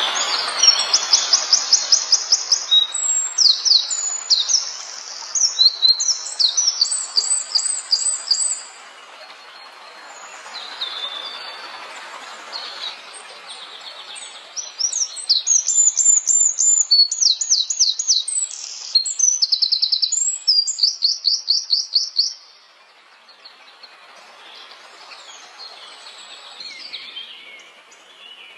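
A small songbird singing in loud bursts of fast, high, evenly repeated notes, with softer twittering in the pauses between the two long runs of song and near the end.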